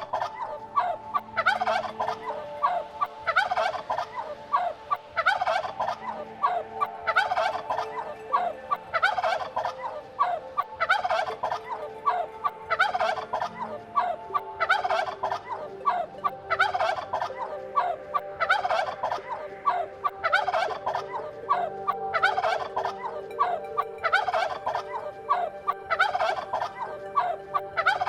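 Farm birds calling: rapid rattling calls repeating about once a second, several overlapping, over a steady chorus.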